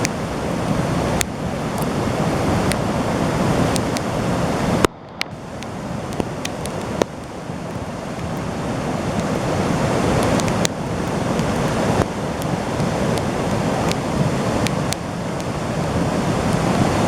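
Floodwater rushing steadily, mixed with wind buffeting the microphone. The sound breaks off sharply about five seconds in and then picks up again.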